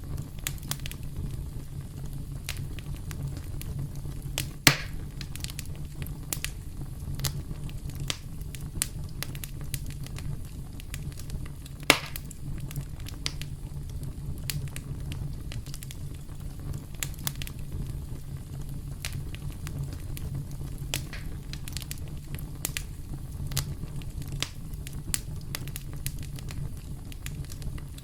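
Campfire burning with a steady low rumble and frequent crackles, and two louder pops, one at about five seconds and one near the middle.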